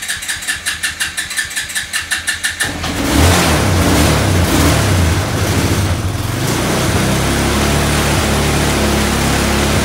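Small engine cold-started on choke: the electric starter cranks it with even pulses, about seven a second, then it catches about three seconds in, runs unevenly for a few seconds and settles into a steady run.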